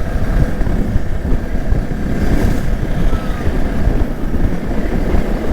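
Motorcycle running at riding speed, with a steady rush of wind over the rider's microphone filling the low end.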